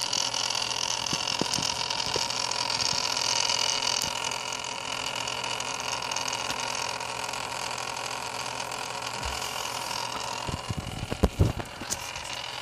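Antec Kühler 620 liquid cooler's pump running with a steady whirring noise and several high tones over a hiss: the abnormal noise it has developed after three months of use. A few sharp knocks about eleven seconds in are the loudest sounds.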